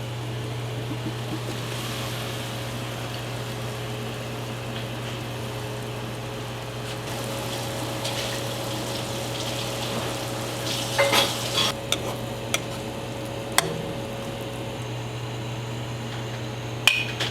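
A pot of water boiling on the stove, a steady bubbling hiss over a constant low hum, with a few short clinks of a utensil against the pot about eleven seconds in and again near the end.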